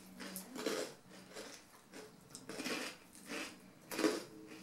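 Crunching of rice crackers wrapped in seaweed (nori maki arare) being chewed: a handful of short, uneven crunches.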